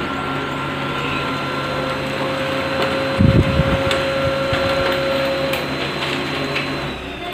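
Brother DCP-L2540DW laser printer running a copy: its motors whir with steady tones, and a loud low grinding knock comes a little over three seconds in. This is typical of a worn fuser drive gear being pushed out of position, so the main motor can no longer turn the fuser unit.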